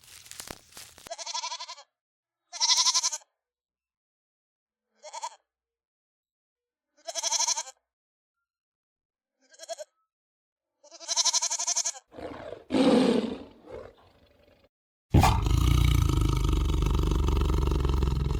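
Farm animal calls edited together: six short, wavering bleats separated by silence, then a lower, rougher call, and near the end a loud, low, rough call lasting about three and a half seconds.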